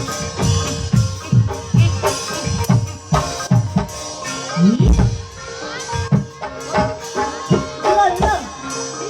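Javanese gamelan playing for a kuda kepang (ebeg) horse dance: low drum strokes about two to three times a second under steady ringing keyed percussion, with a voice singing briefly near the end.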